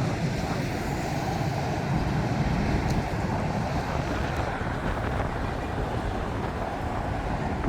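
Steady low rumble of jet aircraft and road traffic noise near the airport, with no single aircraft rising or falling, and wind buffeting the microphone.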